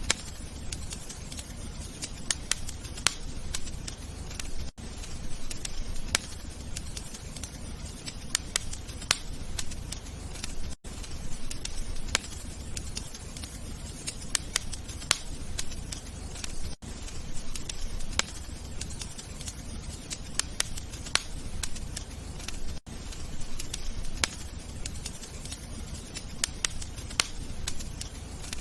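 Wood fire crackling: a steady low rumble of flames with frequent sharp pops and crackles. There is a brief gap about every six seconds, where the recording loops.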